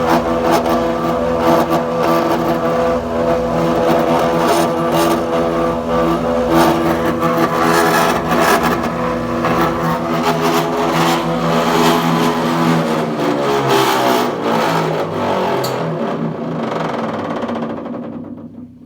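Planer-jointer running with a loud abnormal noise, a steady motor hum full of rapid knocks and rattles that the owners cannot trace. About two-thirds of the way through it winds down, the pitch falling as it coasts to a stop near the end.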